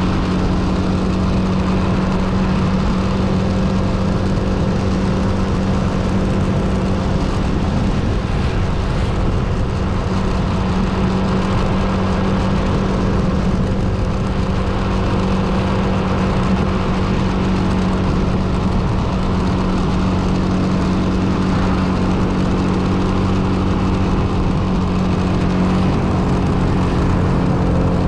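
Motor vehicle engine running at a steady speed, a constant droning hum that holds one pitch throughout.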